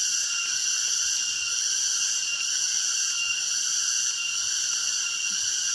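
Chorus of insects shrilling steadily at a high pitch, several shrill tones held without a break.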